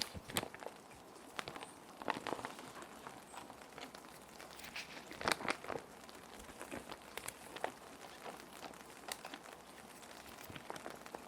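Plastic sheet protectors crinkling and rustling as they are handled, in irregular soft crackles with louder clusters about two seconds in and again just past the middle, over a steady hiss of rain.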